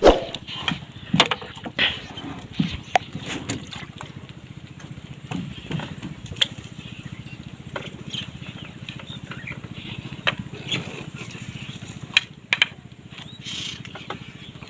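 A small engine running steadily with an even low pulse, with scattered sharp knocks and clatter over it.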